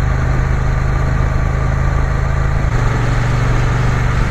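Triumph Bonneville T120 parallel-twin engine running steadily under way, with road and wind noise; the engine note changes about two-thirds of the way through.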